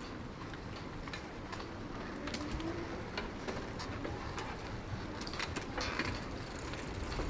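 Bicycle being ridden: scattered, irregular clicks and rattles from its mechanism over a steady low rumble.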